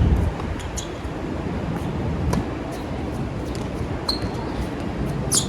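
Tennis rally on a hard court: racket strikes and ball bounces as short knocks, with a couple of brief shoe squeaks about four and five seconds in. Steady wind rumble on the microphone underneath.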